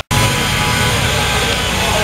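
Car engine held at high revs during a burnout, with the tyres spinning, a steady loud sound that starts abruptly.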